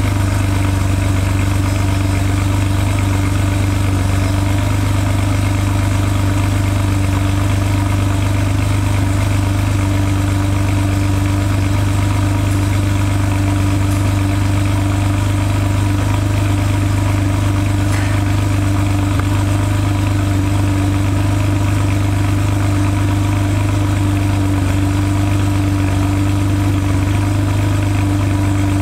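Alfa Romeo Milano's V6 idling steadily at the exhaust, without revving, shortly after a cold start.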